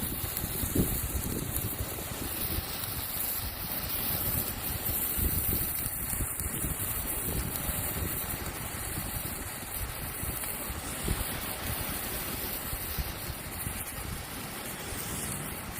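Strong gusty wind buffeting a smartphone's microphone, a rumbling low roar with a steady high hiss over it.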